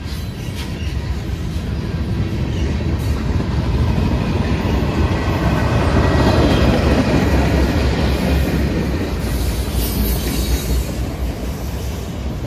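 A train rolling past on the track: a continuous rumble of wheels on rail that builds to its loudest about halfway through, then eases off a little.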